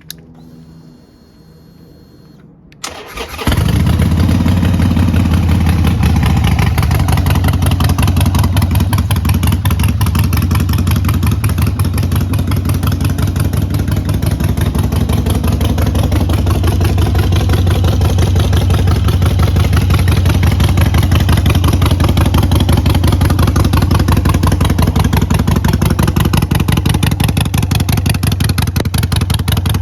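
Harley-Davidson 883 Iron's air-cooled V-twin cranked on the starter after a faint high whine, catching about three seconds in, then idling steadily and loudly.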